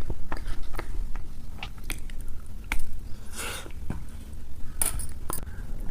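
Close-miked biting and chewing of Dubai chocolate: many small crunchy crackles, with two short louder crunches about three and a half and five seconds in.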